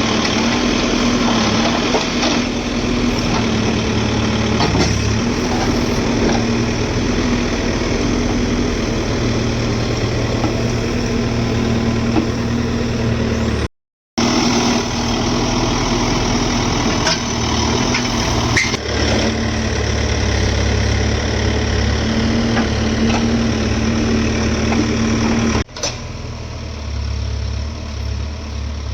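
Diesel engines of a JCB backhoe loader and tractor running steadily during mud loading. The sound cuts out for a moment about halfway through and is quieter near the end.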